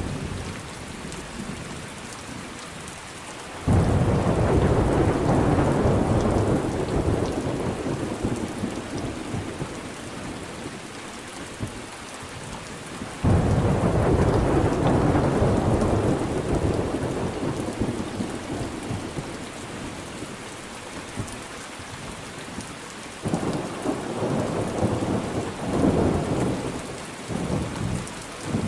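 Thunderstorm: steady rain with thunder. A clap breaks about four seconds in and rumbles away over several seconds, a second comes about thirteen seconds in, and a run of shorter rolls of thunder follows near the end.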